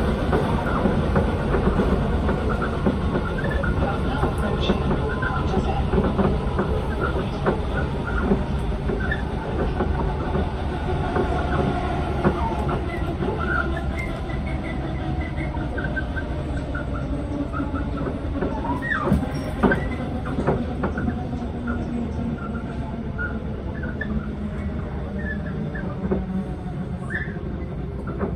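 Inside an electric passenger train: steady rumble of wheels on the track with rattles and brief high wheel squeals. The train eases toward a station platform near the end.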